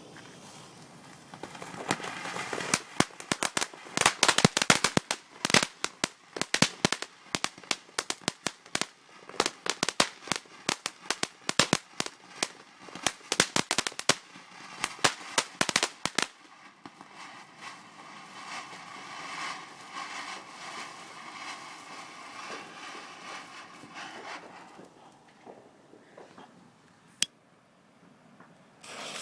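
Fireworks going off: a fast, irregular string of sharp bangs and crackles for about fourteen seconds that stops suddenly. A steady hiss follows and fades, and one last crack comes near the end.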